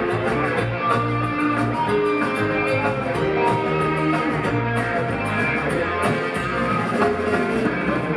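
Live rock band playing an instrumental passage between sung verses, with guitar out front over bass, keyboards and drums.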